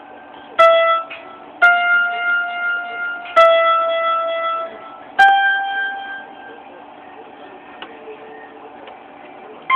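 Four single notes played one at a time on a keyboard, each starting sharply and fading away over about a second; the last note is a little higher than the others.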